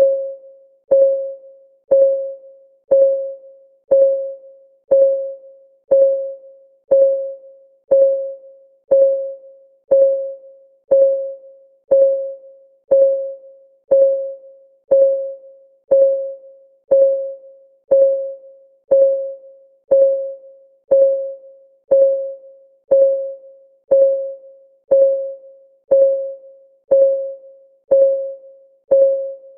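Clock ticking sound of a countdown timer: one short, evenly spaced tick a second, each with a brief pitched ring that dies away before the next.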